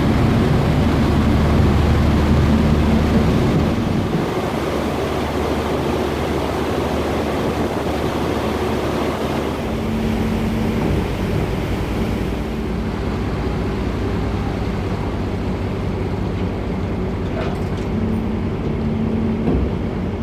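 Dubai Ferry's engines running, heard on board as a steady low drone mixed with rushing water and wind noise. The drone turns slightly quieter about four seconds in and its low note shifts about halfway through.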